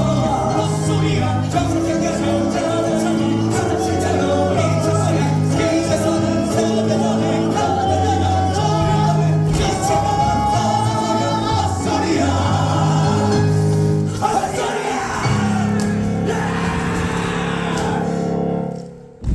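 Male voices singing a musical-theatre number with band accompaniment, building to a held final note; the music ends shortly before the close.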